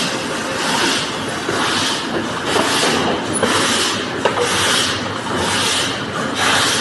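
Balloon-type bottle rinser running: a hiss of rinse spray swells and fades roughly once a second over the steady noise of the machine, with a few faint clicks.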